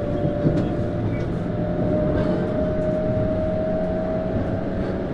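Tokyu Series 9000 commuter train running, heard from inside a motor car: rumble of wheels on the track with a few sharp clicks, under a steady whine from the Hitachi GTO-VVVF traction drive that rises slightly in pitch.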